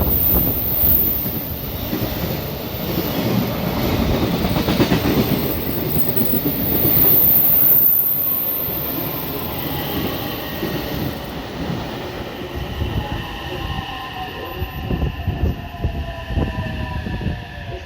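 Freight train hauled by an EF210 electric locomotive passing through a station at speed: a continuous rumble with wheels clattering over rail joints, loudest about seven seconds in. In the second half several high tones sound together and slowly fall in pitch.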